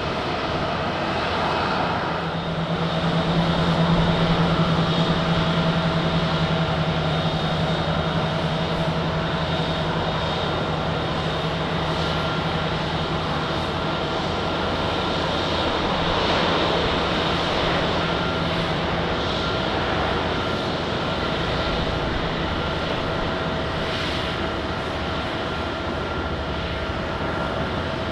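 Passenger jet engines running steadily, a continuous rushing noise with a steady whine. A low hum in it is strongest for about the first two-thirds, then fades.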